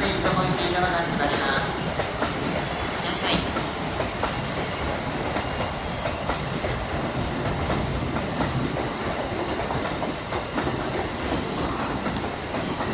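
Electric commuter train running on the rails, its wheels clacking over the rail joints.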